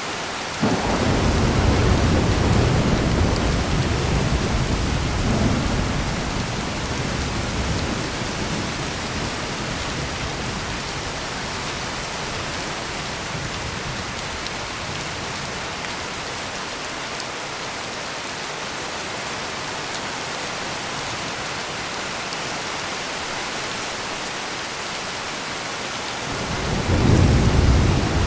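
Steady heavy rain with two rolls of thunder: one breaks in suddenly about a second in and rumbles away over several seconds, and another swells up near the end.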